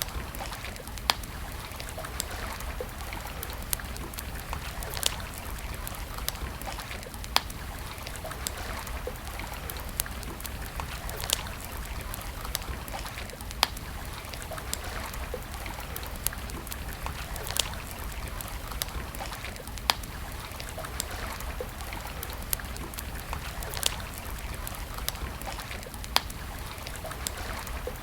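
Campfire crackling, with sharp pops of burning wood every second or two, over a steady rush of flowing stream water.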